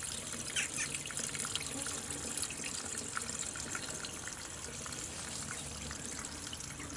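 Steady rain and trickling water: an even hiss scattered with many small drip ticks.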